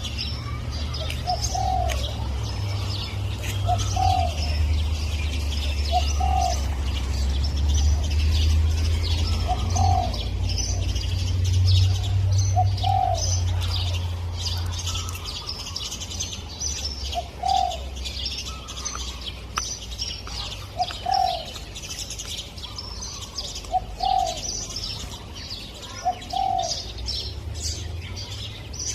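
Spotted dove cooing, short low notes repeated every two to three seconds, over the constant high chirping of many small birds. A low rumble sits under the first half and fades about halfway through.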